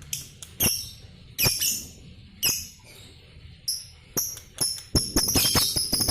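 Lovebird chirping: a dozen or so short, sharp, high-pitched calls spaced irregularly, coming faster near the end.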